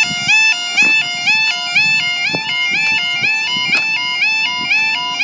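Level crossing warning alarm sounding: a loud electronic two-tone yodel that alternates steadily between a higher and a lower pitch about two to three times a second, warning that the barriers are about to lower for a train.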